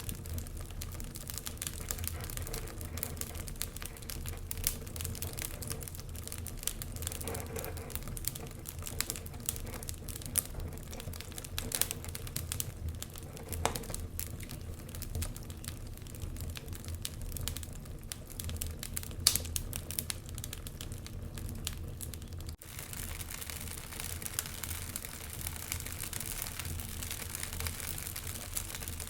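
Wood fire burning in a fireplace, crackling and popping in irregular sharp clicks over a low steady rumble. Near the end the sound changes abruptly and becomes hissier.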